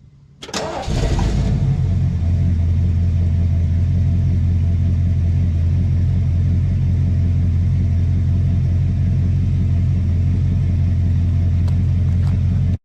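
A click, then a vehicle engine catches about half a second in and runs at a steady, unchanging speed.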